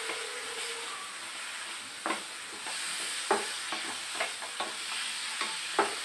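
Grated dry coconut roasting in hot ghee in a kadhai: a steady sizzle, with a spatula stirring it and scraping and knocking against the pan in irregular strokes, most of them in the second half.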